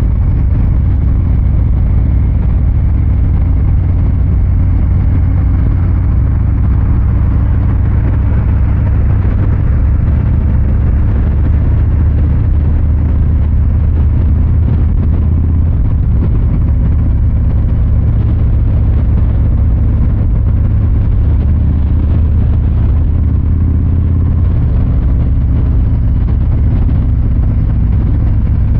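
Harley-Davidson Fat Boy 114's Milwaukee-Eight 114 V-twin engine and exhaust running steadily at an easy pace, a deep low rumble whose pitch shifts slightly a few times.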